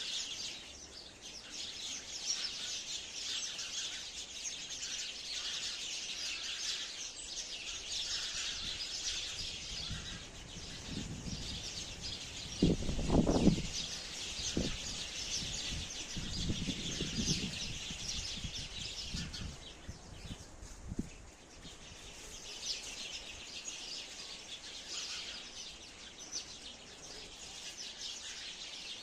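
Many sparrows chirping in a dense, overlapping chatter, thinning out briefly about two-thirds of the way through. A few low rumbling thuds come in the middle, the loudest about halfway.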